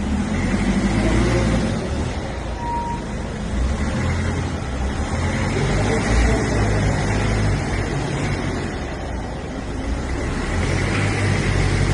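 A motor vehicle running, a steady low rumble.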